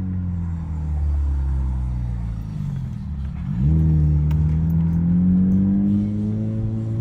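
2012 Honda Civic's 1.8-litre four-cylinder engine running through an aftermarket eBay muffler exhaust. The revs fall slowly for about three seconds, dip sharply about halfway through, then the note comes back louder and climbs steadily.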